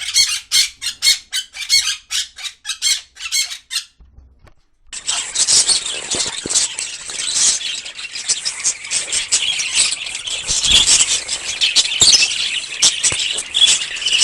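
Parrot squawking in a quick, even series of sharp calls, about four a second. After a short pause it breaks into a dense, continuous high-pitched chatter of squawks and chirps.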